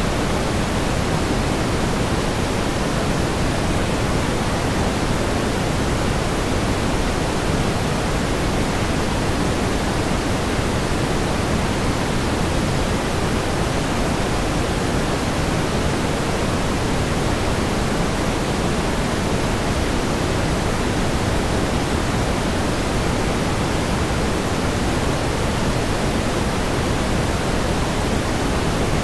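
Steady pink noise: an even, unchanging hiss weighted toward the low end, with no events or changes.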